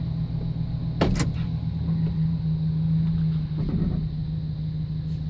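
GMC pickup truck's engine idling steadily, heard from inside the cab, with one sharp click about a second in and the engine note a little stronger in the middle.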